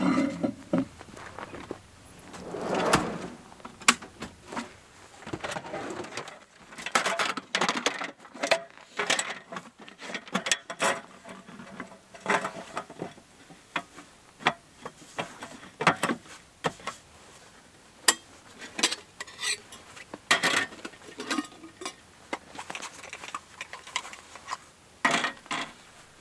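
A run of irregular clinks and knocks, like dishes or small gear being handled and set down, with a softer rustle about three seconds in.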